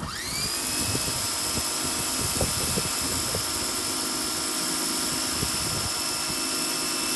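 Electric pressure washer starting up: its motor whine rises in pitch during the first second, then holds steady under the loud hiss of the turbo nozzle's water jet on concrete.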